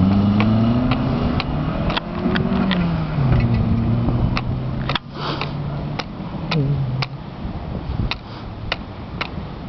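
Rally car engine revving hard as it accelerates away on a gravel stage. The pitch climbs and drops at each gear change, and the sound fades as the car goes off into the distance. Sharp clicks are scattered throughout.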